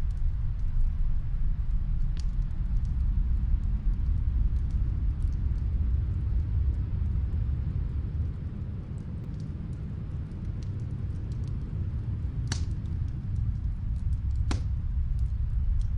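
Snowstorm wind rumbling low and steady, with a wood fire crackling faintly beneath it: scattered small ticks and a few sharper pops, two of them close together near the end.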